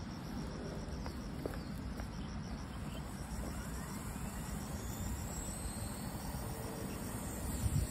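Outdoor ambience: a steady low rumbling noise, with an insect chirping in an even pulse and a faint whine that rises in pitch midway.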